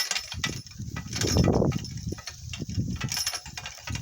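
Donkey cart rattling and jolting over rough ground: a jumble of knocks and clatter over a low rumble, heaviest about a second and a half in.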